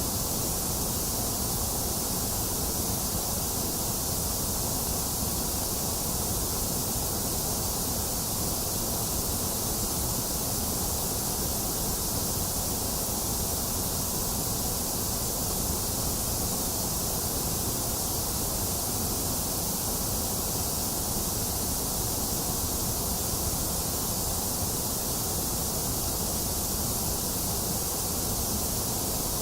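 Steady, unchanging electronic white noise: an even hiss with no breaks or events.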